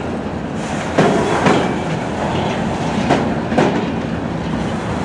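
Freight train flatcars rolling past with a steady rumble of steel wheels on rail. Wheel clacks come in two pairs, each pair half a second apart, about two seconds between the pairs.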